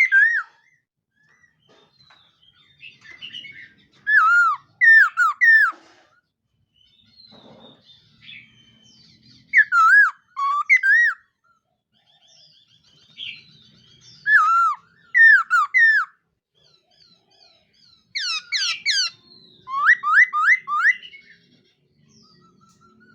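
A laughingthrush (khướu mun) singing loud, clear whistled phrases. Each phrase is a quick run of two to four curving notes, about four phrases in all, with soft chattering notes between them.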